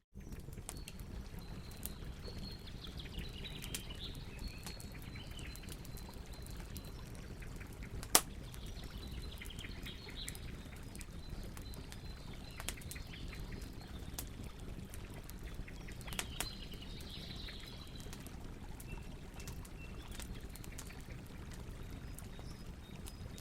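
Campfire crackling with scattered small pops and one sharp, loud pop about eight seconds in, over steadily flowing water, with birds chirping now and then. The sound drops out for a moment at the very start.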